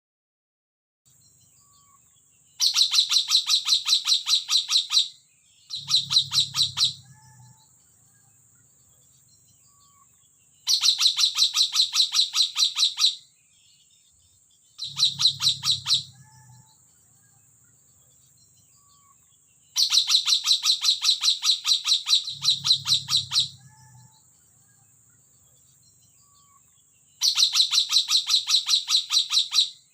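Nuri tanau (puling) parrot calling in repeated bursts of rapid, sharp chattering notes, about ten to a second, each burst a couple of seconds long with short pauses between, six bursts in all. A faint steady high-pitched whine runs underneath.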